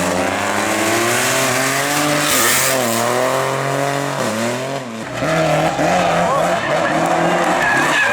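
Hillclimb race car's engine accelerating hard through the gears, its pitch climbing and dropping back at each shift, about two and a half, four and five seconds in.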